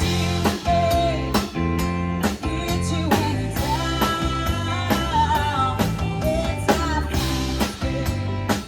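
A band playing a rock song with guitar, bass, drums and a singing voice. The drums keep a steady beat of about two strokes a second.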